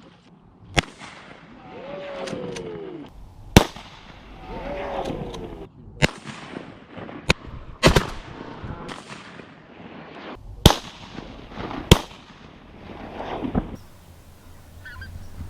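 A volley of shotgun shots from several hunters firing at incoming teal: about eight sharp blasts spread unevenly over some thirteen seconds, a few of them close together. Between the first shots come short falling cries.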